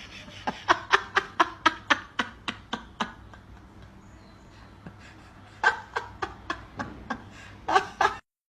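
A person laughing in rapid, short bursts of about four or five a second, in two runs with a pause between them and a couple more bursts near the end.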